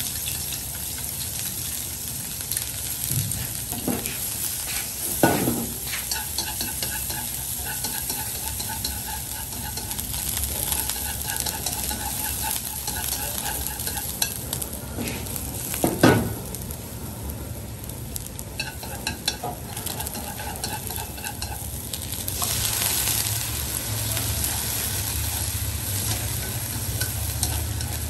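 Chopped aromatics frying in hot oil in a nonstick wok, with a steady sizzle and chopsticks stirring and scraping the pan. A few sharp knocks on the pan, the loudest about 16 seconds in. The sizzle grows louder about 22 seconds in as more goes into the wok.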